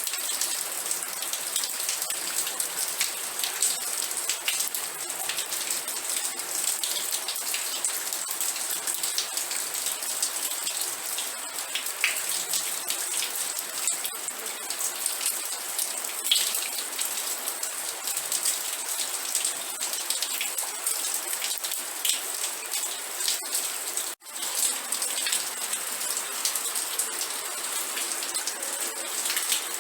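Steady rain falling on a surface, a dense even patter of many fine drops. About 24 seconds in it cuts out for a split second and then resumes.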